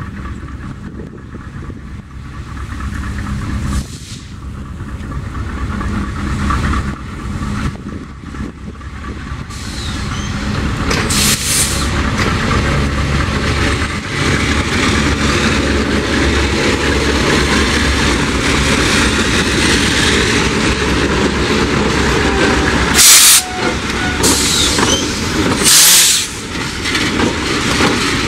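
Diesel freight train led by two GE C30-7 locomotives running past, growing louder as the engines draw level, then wheels rolling over the rails. There are short bursts of hiss about eleven seconds in and twice near the end.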